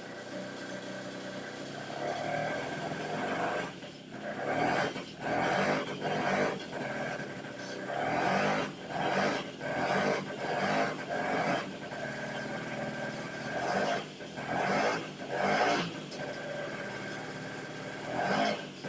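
Moskva M1A's single-cylinder two-stroke engine running on its first start after restoration, the throttle blipped in short revving bursts, about a dozen times, over a steady idle.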